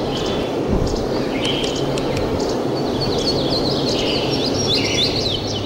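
Birds chirping, many quick high calls coming thick and fast in the second half, over a steady background hiss.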